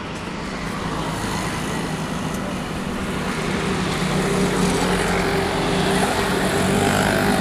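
An engine running steadily with a low hum over a broad rushing noise, growing gradually louder as it comes closer.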